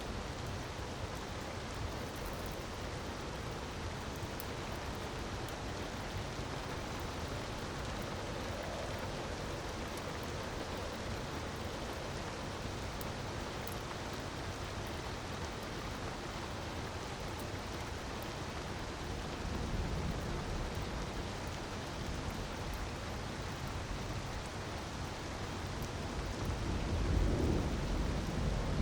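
Steady rushing of water with faint crackling from a wood fire, and a low rumble about 20 seconds in and again, louder, near the end.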